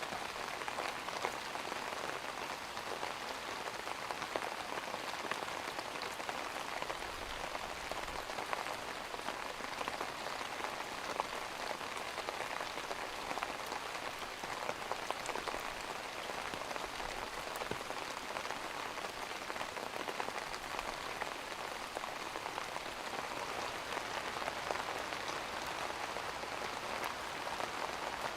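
Rain falling steadily on a surface: an even hiss with many small drop ticks.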